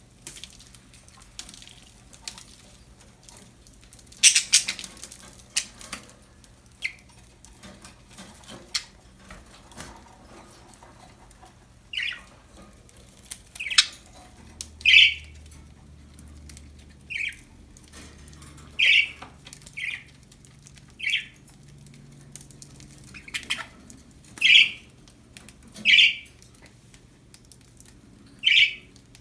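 Budgerigars (pet parakeets) giving about eleven short, sharp chirps, one every second or two, in the second half. Before the chirps, a stretch of clicks and rustling.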